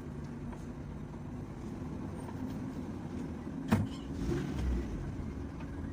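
Car engine idling with a low, steady rumble. A single sharp click comes a little over halfway through.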